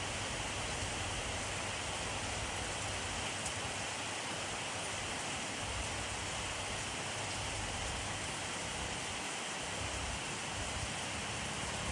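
Steady rainfall: an even hiss of rain falling on surfaces, with a few faint individual drops and some low rumble.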